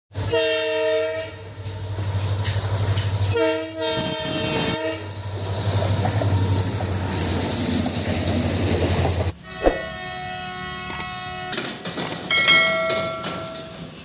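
Twin WDP-4D diesel-electric locomotives passing at speed, sounding a multi-note horn twice over a steady low engine drone and the rush of wheels on rail. About nine seconds in, the rushing noise stops abruptly, and fainter horn notes sound twice more.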